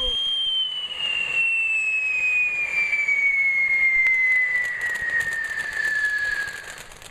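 Whistling firework giving one long whistle that glides slowly and steadily down in pitch, then stops shortly before the end.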